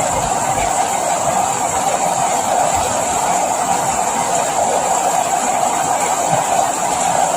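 Steady rain falling, an even hiss that holds without break.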